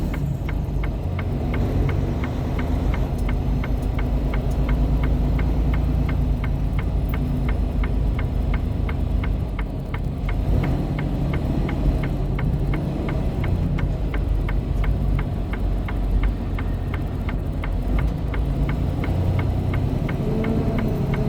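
Semi truck's diesel engine running, heard from inside the cab as a steady low rumble, with a light, fast, regular ticking over it.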